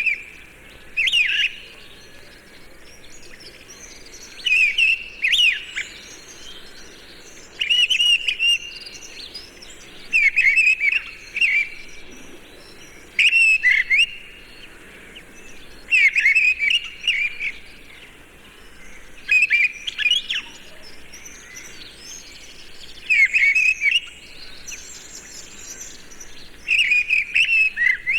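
Birdsong: one bird repeats a short, sweeping song phrase about every three seconds, with fainter chirps of other birds in the background.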